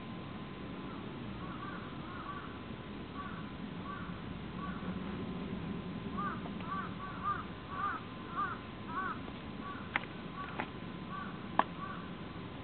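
Birds calling in a forest: a run of short rising-and-falling calls that get denser and louder about halfway through, over a faint low hum. Three sharp clicks come near the end.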